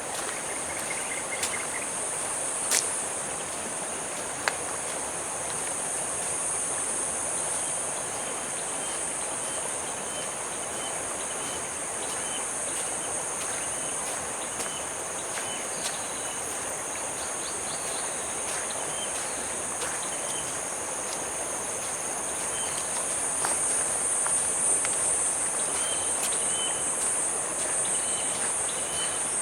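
A steady, high-pitched insect chorus with short repeated chirps, over a soft, even rushing background. A couple of sharp ticks sound in the first few seconds.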